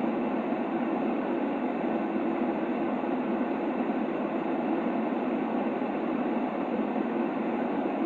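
Continuous sleep-aid noise: a steady, unbroken hiss weighted toward the low and middle range, muffled, with no high treble.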